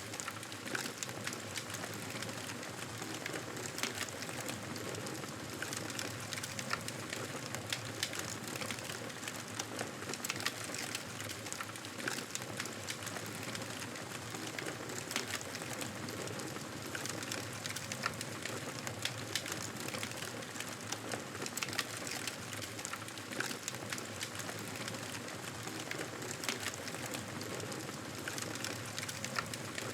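Wood fire crackling: frequent sharp pops and snaps over a steady hiss.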